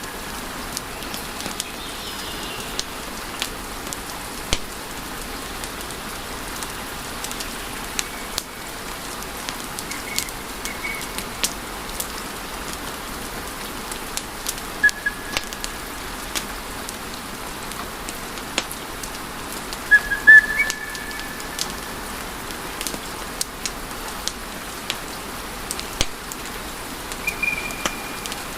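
Wood fire burning in a fireplace: a steady hiss with frequent sharp pops and snaps, and a few brief high whistles from gas escaping the burning logs. The loudest cluster of pops, with a whistle, comes about two-thirds of the way in.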